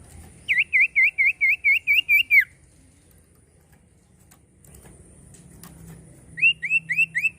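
Common iora singing: a quick run of about nine loud whistled notes, about four a second, each swooping down and back up. After a pause of a few seconds, a second run of short rising whistles starts near the end.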